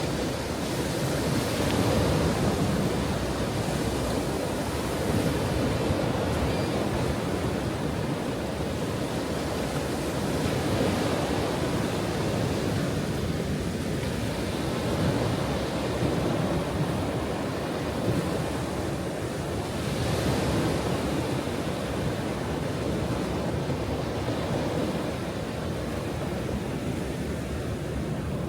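Ocean waves breaking and washing on a shore, a continuous surf noise that swells and eases every few seconds, with some wind on the microphone.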